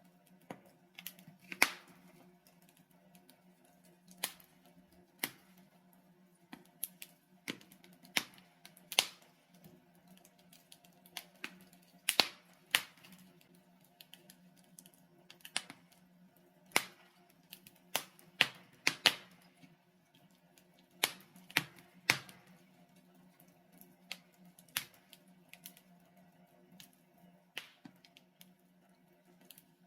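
Log fire in a fireplace crackling: irregular sharp pops and snaps, a few much louder than the rest, over a faint steady low hum.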